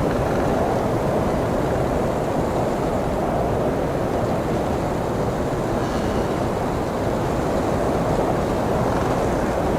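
Blizzard wind blowing steadily, a dense noise with a low rumble and small swells in strength.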